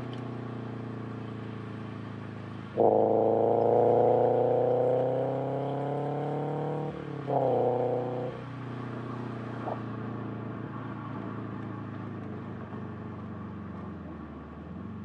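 Subaru BRZ's flat-four boxer engine with unequal-length headers under way. About three seconds in it pulls hard, rising in pitch for about four seconds. After a brief break comes a short loud burst that falls in pitch, then it settles to a quieter steady note.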